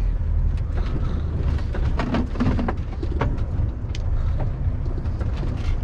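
Heavy goods vehicle's diesel engine running low and steady, heard from inside the cab as the lorry creeps slowly, with scattered light clicks and rattles.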